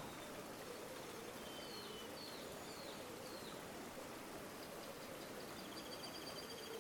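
River water flowing steadily, with small birds calling over it: a few short chirps about a second and a half in, then a rapid high trill near the end.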